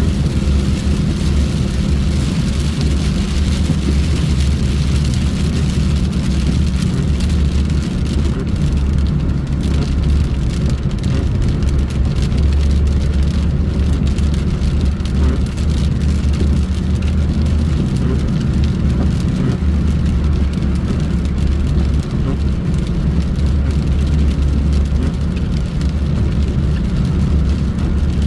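Steady low rumble of a vehicle driving along a road, its engine and tyre noise holding at an even level.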